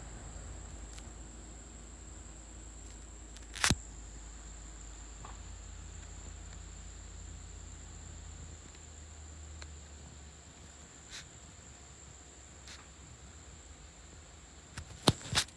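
Low hum of a ceiling fan coasting down after being switched off, fading out about nine seconds in. A steady high-pitched whine runs throughout, with a sharp click about four seconds in and a few more clicks near the end.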